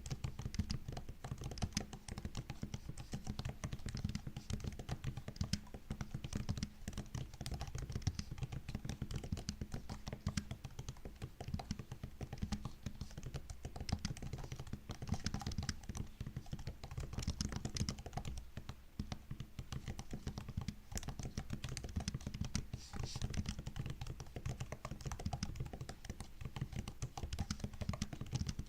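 Continuous typing on a MacBook's built-in keyboard: a dense, steady run of key clicks with no pauses.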